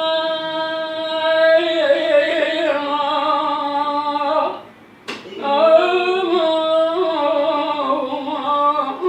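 Solo voice singing a southern Iraqi folk song with no accompaniment. It holds two long, drawn-out wordless notes, the second wavering in pitch, with a short breath-break between them about halfway through.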